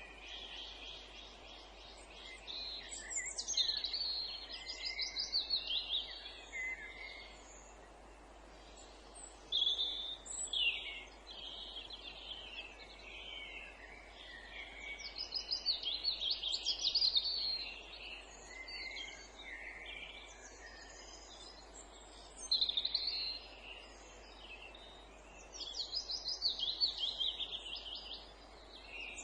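Songbirds singing: phrases of rapid, repeated high notes come every few seconds, over a faint steady background noise.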